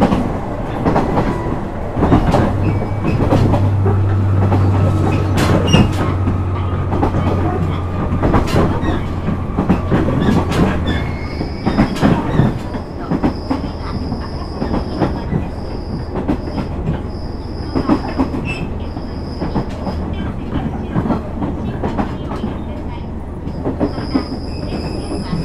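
Onboard running sound of a KiHa 126 series diesel railcar: the diesel engine drones under power, then eases off about eleven seconds in, while the wheels click over rail joints. In the second half a high squeal comes and goes several times.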